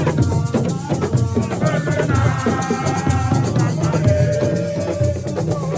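Live assiko music: drums and shakers in a fast, steady rhythm, with a held melodic line over it.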